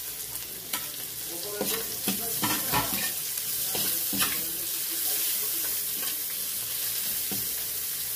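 Onion, garlic, ginger and chilies sizzling as they sauté in oil in a metal wok. A metal spatula scrapes and clinks against the pan several times during the first half as the ingredients are stirred, then the sizzle goes on steadily.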